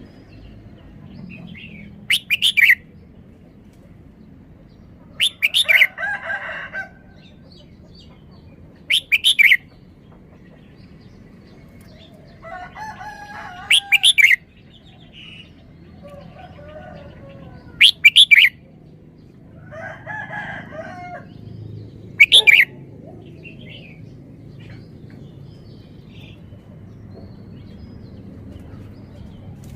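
Red-whiskered bulbul singing its short three-syllable song phrases, loud and clear, about every four seconds, six times. Softer, lower chattering calls come between some of the phrases.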